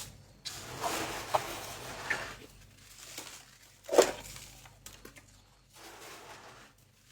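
Loose freezer frost squeezed and crumbled between the fingers, crunching and squeaking like footsteps in snow, with one sharper crunch about four seconds in.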